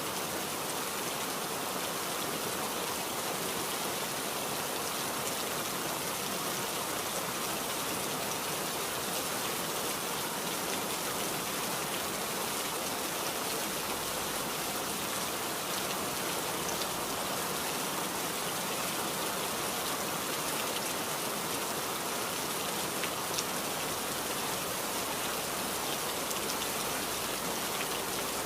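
Steady rainfall: an even hiss of rain falling on surfaces, with scattered individual drops ticking through it.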